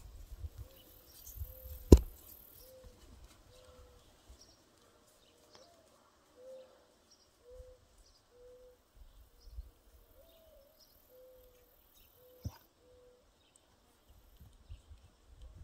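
A bird repeating a short, low note about once every three-quarters of a second. A single sharp knock about two seconds in is the loudest sound, with a smaller knock later.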